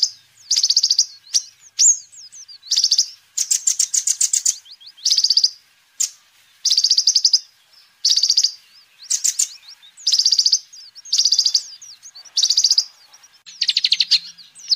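A kolibri ninja sunbird singing: short, high-pitched bursts of rapid chipping trills, about one burst a second, with brief gaps between them.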